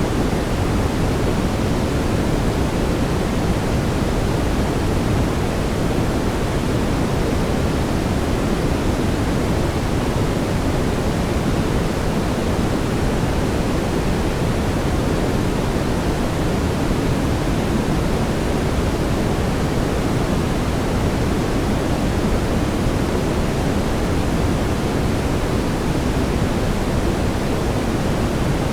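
Brown noise: a steady, even rushing hiss weighted toward the low end, with no changes.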